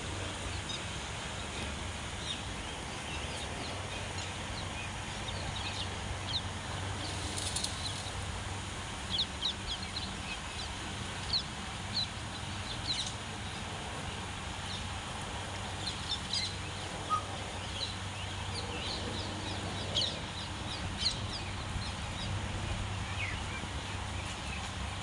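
Birds chirping on and off, many short high calls scattered throughout, over a steady background hiss and low hum.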